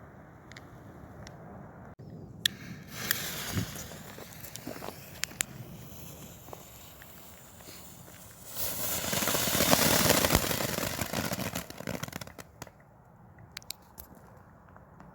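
Ground firework fountain burning: a hissing spray with crackles starts suddenly a few seconds in, swells to its loudest past the middle, then dies down to scattered crackles near the end.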